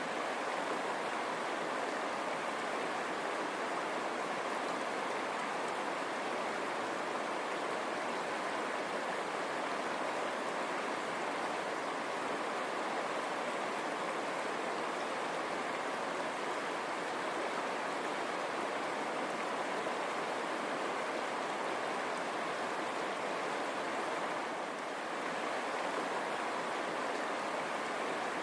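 River water running over stones: a steady rushing babble with no other sounds.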